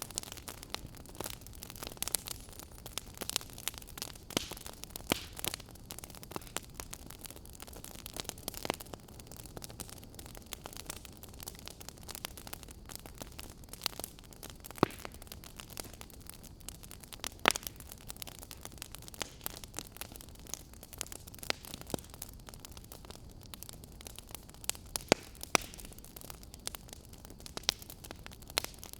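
Wood fire crackling in a fireplace: irregular sharp pops and snaps over a soft steady hiss of flames, with a few louder pops.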